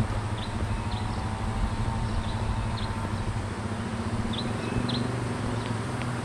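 A car engine running with a steady low hum, pulling up a steep climb. Small birds give short high chirps about once a second over it, and there is a brief knock at the very start.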